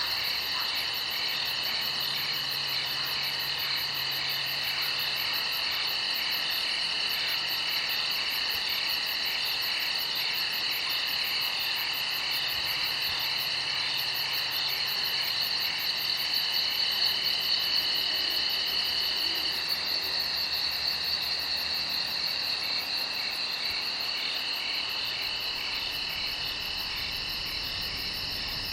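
Night chorus of crickets and other insects, several high trills chirping at once in a steady, rapidly pulsing drone; one of the trills drops out for a few seconds past the middle.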